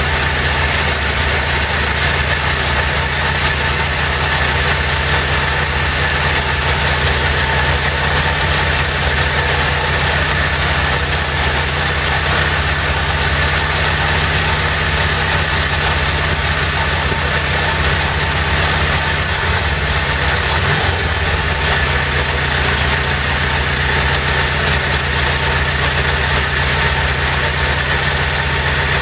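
1977 Harley-Davidson XLCR's 1000 cc Ironhead V-twin idling steadily at its first fire. The idle wavers briefly once, about twenty seconds in.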